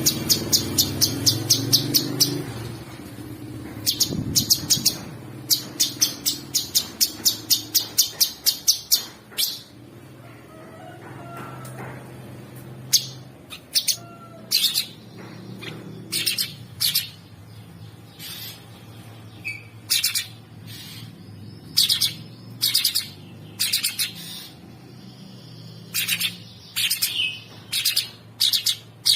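Cucak sungkok songbird singing in rapid runs of sharp, high chirps, about eight to ten a second. These break off after a few seconds into sparser single chirps and short pairs, with a faint low hum underneath.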